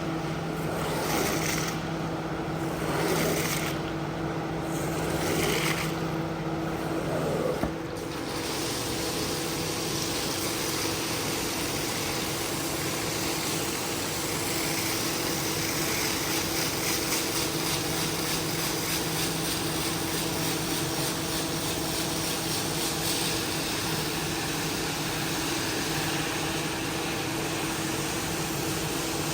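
A motor-driven cleaning machine running steadily with a constant hum and hiss. For the first eight seconds the hiss rises and falls every second or two; after that it settles into an even, continuous hiss.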